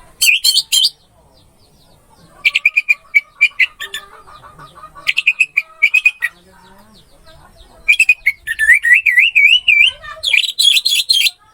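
Orange-headed thrush singing: four loud, high, rapid song phrases with short pauses between them, the longest near the end with a wavering rise-and-fall warble. Fainter chirping runs in the gaps.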